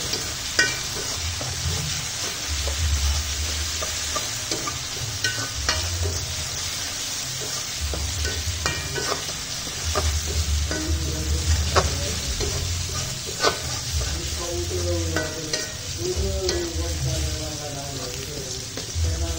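Ground spice paste sizzling in hot oil in a wok while a spatula stirs and scrapes through it, with scattered sharp clicks of the spatula against the pan.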